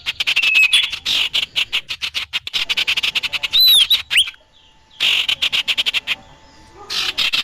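Lure recording of the bird that bird keepers call sirtu or sirfu: bursts of fast, dry chattering with a few short whistled notes. The chatter stops for about a second midway and again near the end.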